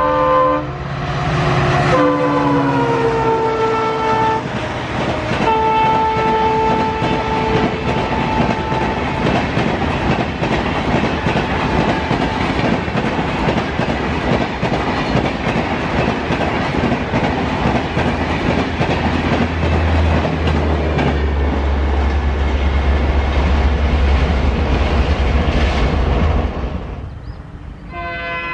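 Indian Railways EMD WDP4-class diesel locomotive sounding its multi-tone air horn as it passes, the chord dropping in pitch as it goes by, then a second long blast. After that a long rake of passenger coaches rushes past with rhythmic wheel clatter, which cuts off about 27 seconds in.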